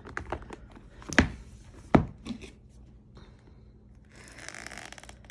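Packaging being handled while journals are unboxed: a few sharp taps and knocks, the two loudest about one and two seconds in, then about a second of packaging rustling and tearing near the end.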